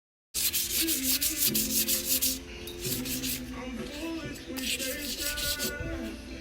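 Hand sanding during a BMX bike restoration: fast back-and-forth rubbing strokes in two bouts, the first starting abruptly just after the start and the second about two-thirds of the way in, over background music.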